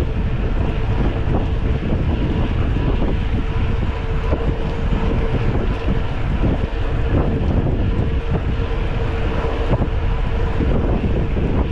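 Wind buffeting the microphone of a mountain bike being ridden at speed, with a steady hum underneath throughout.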